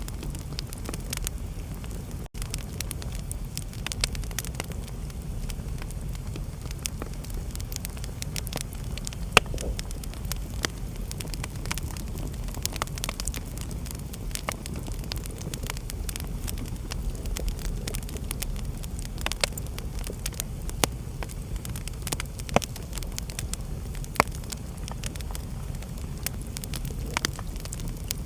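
Fire crackling in a fireplace: a steady low rumble under frequent small snaps, with a few louder pops scattered through.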